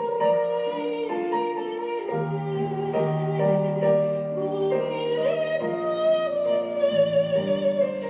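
Women's choir singing slow, held notes in several parts with instrumental accompaniment.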